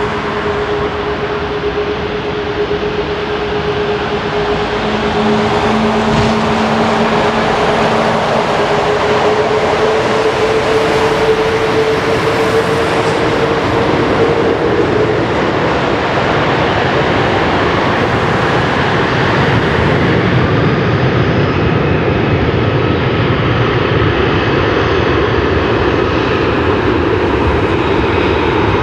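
Airbus A340-600's four Rolls-Royce Trent 500 jet engines running with a steady rush of noise that grows louder about four seconds in. A whine rises slightly in pitch and stops about halfway through.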